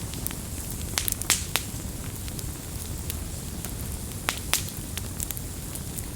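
Wood campfire crackling, with sharp pops in a quick cluster about a second in and twice more past four seconds, over the steady low rumble of the flames.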